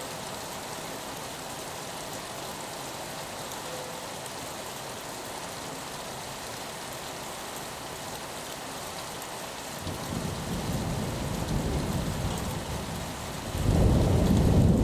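Steady rain on a window, with a low rumble of thunder building about ten seconds in and swelling louder near the end.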